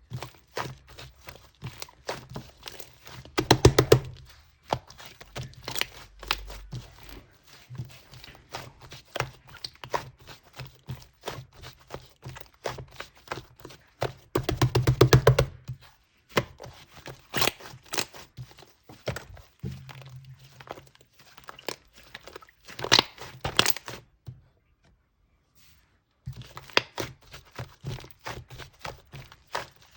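Hands squeezing and pressing yellow slime: irregular sticky clicks and pops, with two louder runs of rapid crackling about 4 and 15 seconds in and a pause of about two seconds near the end.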